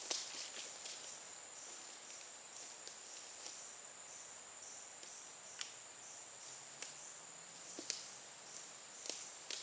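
Insects droning in a steady high-pitched trill that pulses about three times a second. A few sharp clicks or snaps come through it, the loudest at the very start and about eight seconds in.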